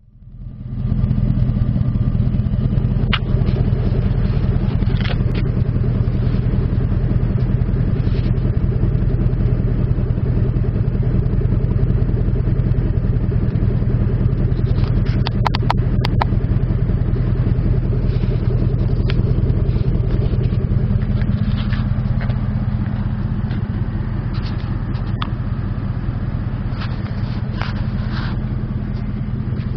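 2003 Kawasaki Vulcan 1500 Mean Streak's V-twin engine idling steadily and really loud through its exhaust, with a few short clicks over it.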